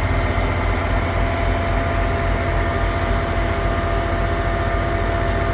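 A heavy truck's engine running steadily at idle, with a low, fast-pulsing throb and a faint steady whine over it.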